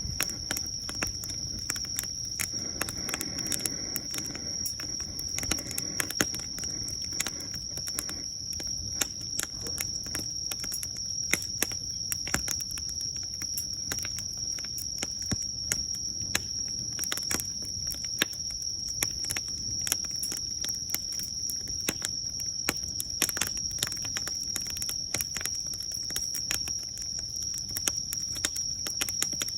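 Wood fire crackling: a steady stream of sharp pops and snaps over a low rumble, with a steady high-pitched whine running underneath.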